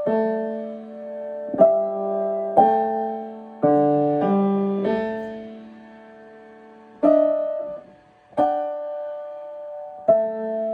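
Piano playing slow chords. About nine chords are struck at uneven gaps of one to two seconds, each left to ring and fade, with a short lull just before the last two.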